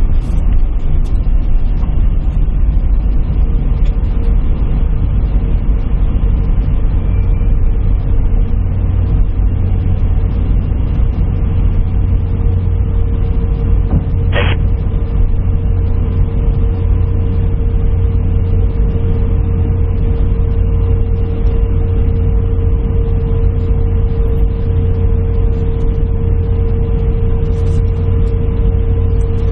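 Steady low rumble of an airliner heard inside the cabin. A steady hum joins about three seconds in, and there is one short click about halfway through.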